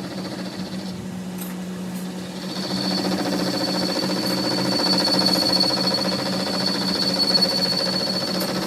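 A workshop machine running steadily with a fast rattle, a low hum and a high whine; it gets louder about two and a half seconds in, as if taking up load.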